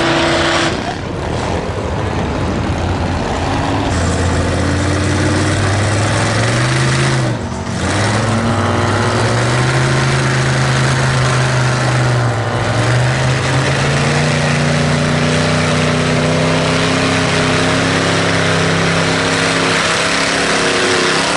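V8 engine of a Chevy Blazer mega truck on V-tread paddle tyres revving hard through a mud bog, with a dense rushing noise throughout. The pitch climbs, drops off sharply twice, about seven and twelve seconds in, then climbs steadily again to the end.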